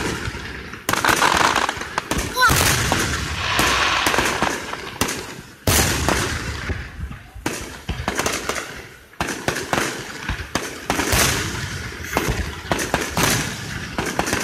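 Fireworks grand finale: a rapid, continuous barrage of aerial shell bursts and crackles, with a brief rising whistle a couple of seconds in.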